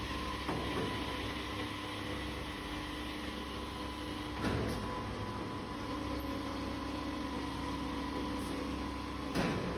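Automatic copper tube end forming and flattening machine running with a steady mechanical hum, with two brief louder working strokes, one about halfway through and one near the end.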